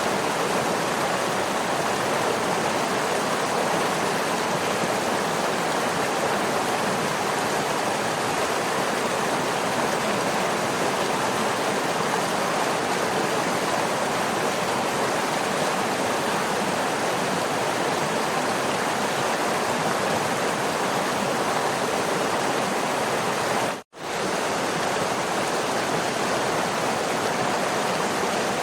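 Waterfall rushing in a steady, even roar of falling water. Near the end it drops out to silence for a split second and fades straight back in.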